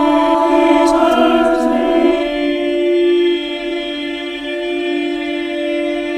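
A cappella choir singing a contemporary choral piece. Several voices move together for the first two seconds, then settle into a long held chord.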